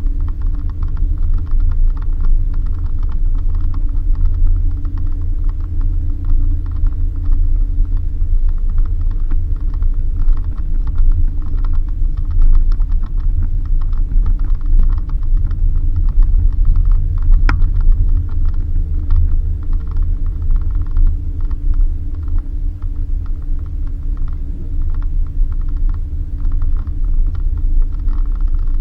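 Suzuki Jimny driving on a rough dirt road: steady low engine and road rumble, with a constant fast rattling and clicking of the body over the bumps.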